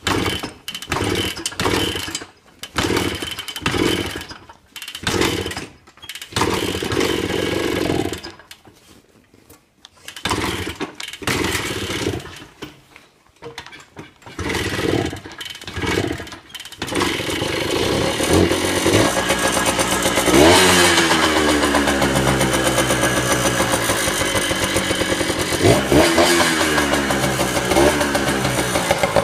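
1986 Kawasaki KD80's two-stroke single-cylinder engine being cold-started: it sputters in a string of short bursts that die away. About 17 seconds in it catches and keeps running, is revved up and back down once a few seconds later, then settles, with short throttle blips near the end.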